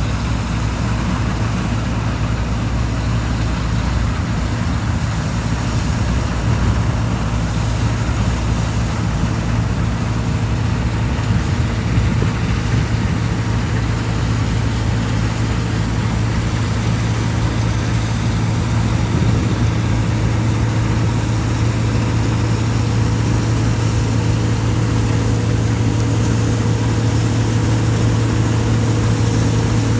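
Harvest machinery engine running steadily at a constant speed, a deep, even hum.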